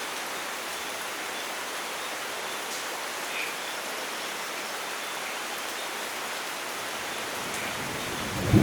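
Steady rain falling, an even hiss with a few faint drop ticks. Right at the end, a low rumble of thunder begins to rise.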